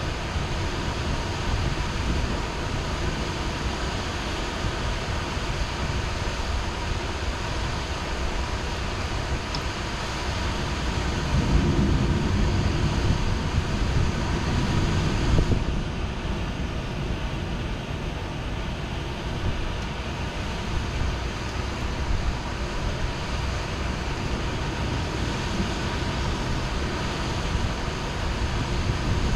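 Heavy rain falling steadily, with a low rumble of thunder swelling about eleven seconds in and dying away about four seconds later.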